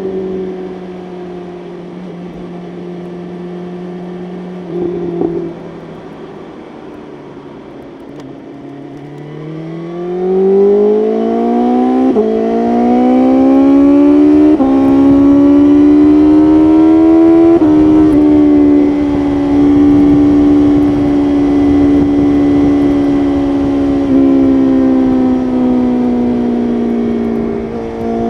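BMW S1000RR inline-four engine at a steady, fairly low cruise, then accelerating hard from about ten seconds in: its pitch climbs and drops sharply at three upshifts. It then holds a steady, higher-pitched cruise with a rushing wind noise under it.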